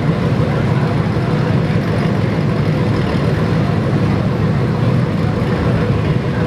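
Dodge Challenger SRT's V8 engine rumbling steadily at low speed as the car crawls past, with crowd chatter underneath.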